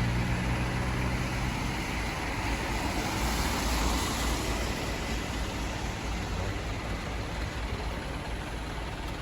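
A truck on the move: a steady low engine drone with road and tyre noise. A pitched engine tone fades out after the first couple of seconds, and the noise swells briefly around the middle.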